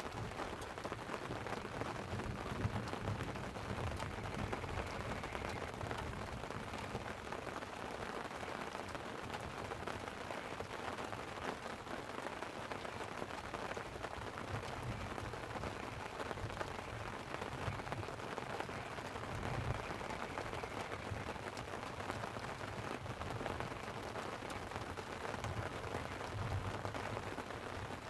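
Light rain pattering on a tent, a steady hiss with many small drop ticks, and a low rumble of distant thunder swelling up a few times.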